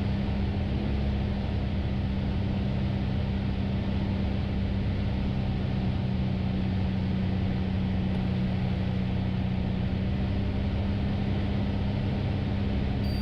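Light aircraft's piston engine and propeller droning steadily in the cockpit at constant power on the downwind leg, one unchanging tone over a rush of airflow noise.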